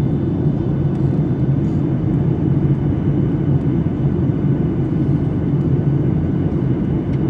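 Steady rumble of an airliner's engines and airflow heard inside the passenger cabin, even in level throughout.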